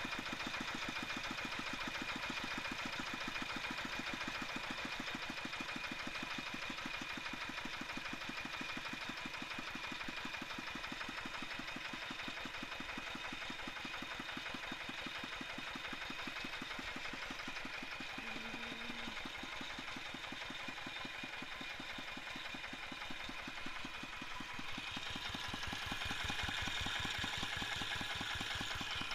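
Tractor diesel engine idling slowly and smoothly, a steady even run of firing beats that grows slightly louder near the end. It is a balancer-equipped engine freshly fitted with new piston rings and valve seals to cure its smoking.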